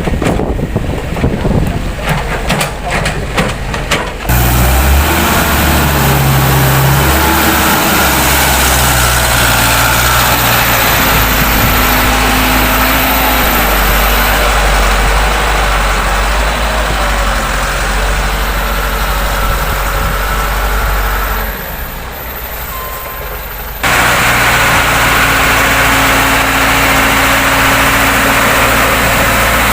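Heavy diesel engine of large construction machinery running loud and steady, with shifting engine tones. A quick series of knocks and clicks comes first; the engine starts abruptly about four seconds in, drops away briefly near three-quarters through, and comes straight back.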